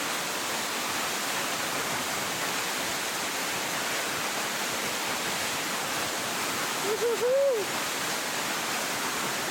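Waterfall roaring steadily, an even rushing noise. About seven seconds in a brief pitched sound rises and then falls over it.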